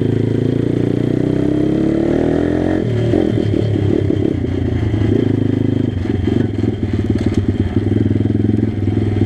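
Pit bike engine revving: its pitch climbs steadily for nearly three seconds, drops sharply, then runs at lower revs with an uneven, pulsing note.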